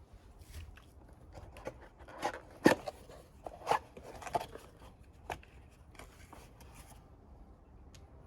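A string of irregular clicks and knocks from tools and metal or plastic parts being handled during a car battery swap, the two loudest knocks about a second apart near the middle.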